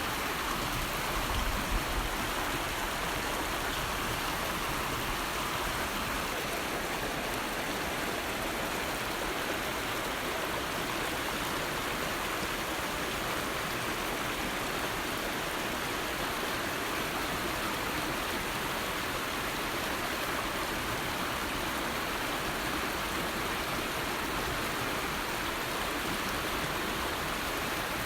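River water flowing steadily over rocks, an even rushing babble with a brief low bump about two seconds in.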